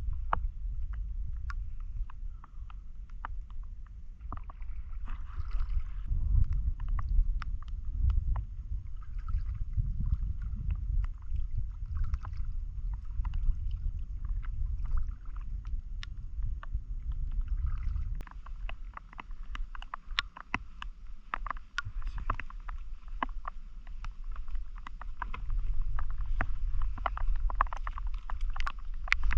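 A small boat being paddled across water, with splashes and drips from the paddle and many short light knocks, over a steady low rumble of wind on the microphone. The knocks come more often in the last third.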